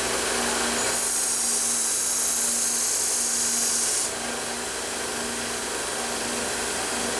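Belt grinder running with a steady hum, and a knife blade pressed against the moving abrasive belt for about three seconds, giving a high grinding hiss that stops abruptly.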